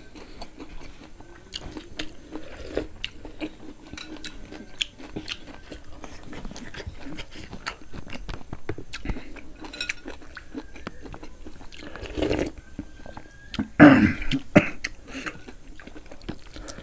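Close-up chewing and biting of roasted pig head meat and skin: irregular wet mouth clicks and light crunching, with two louder throaty sounds in the last few seconds.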